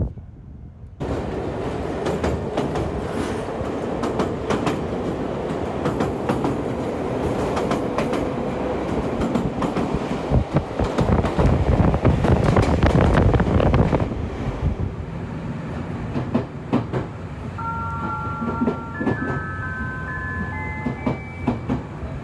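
Chichibu Railway 6000-series electric train running, heard through an open window: a steady rumble with rapid wheel clicks over the rail joints, starting about a second in and loudest around the middle. Near the end the rumble eases and short high steady tones come and go over it.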